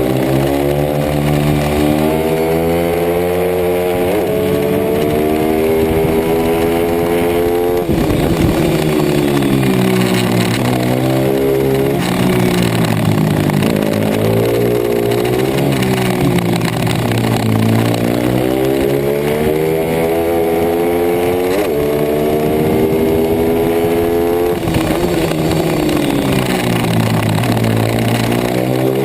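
Racing pit bike's single-cylinder four-stroke engine at full race pace, its note climbing through the revs and dropping back again every few seconds as the rider opens and closes the throttle and shifts.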